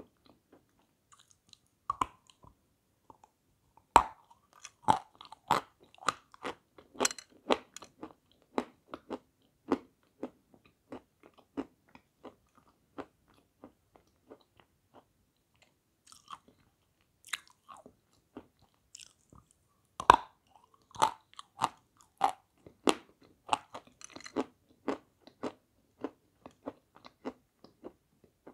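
Close-up chewing and crunching of a white, brittle Turkish sweet (Şedevr), with irregular crackly bites; the sharpest crunches come about four seconds in and again around twenty seconds in.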